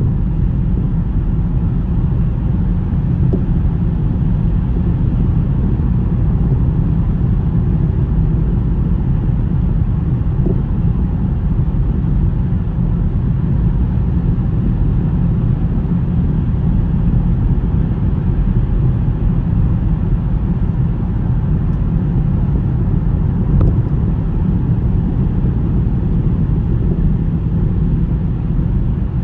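A car driving, giving a steady low rumble of road and wind noise with no change in pace.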